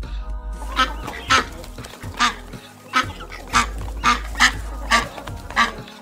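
Greylag goose honking: a series of about nine short, loud honks at uneven intervals. Background music plays underneath.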